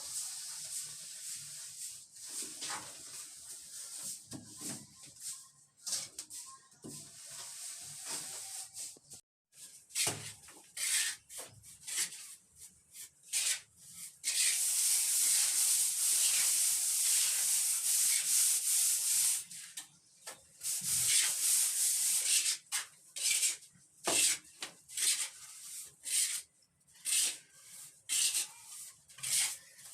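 A plastering tool scraping and rubbing over cement-sand plaster on a wall. Short irregular strokes, then about halfway through a continuous stretch of rubbing for several seconds, then short strokes again.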